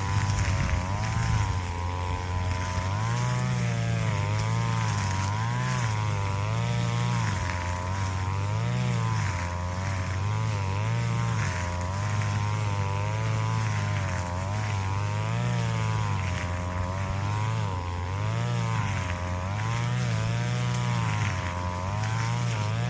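Small engine of a grass cutter running hard at full throttle while cutting grass. Its pitch dips and recovers every second or so as the load comes and goes.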